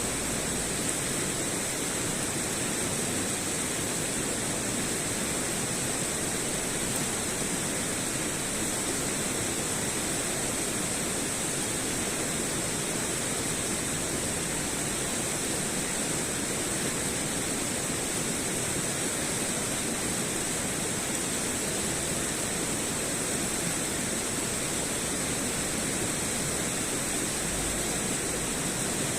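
A steady, even rushing noise with a constant high hiss on top.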